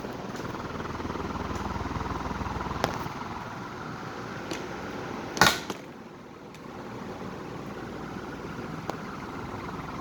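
Ventisol Wind Comercial ceiling fan running with a steady rushing noise and a low hum. A sharp click stands out about five and a half seconds in, with a few fainter ticks around it.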